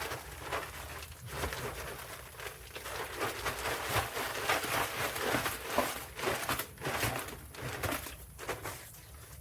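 A plastic bag of filter fill being handled and emptied: the bag crinkles as loose granular material pours and scrapes out in uneven rushes.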